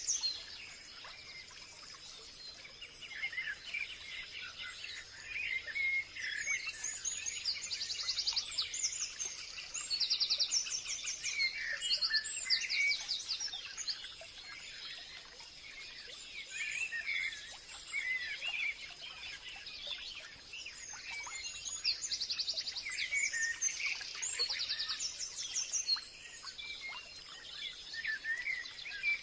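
Forest birds singing and calling: rapid high trills that come back every second or two, mixed with scattered lower chirps, over a faint steady high-pitched tone.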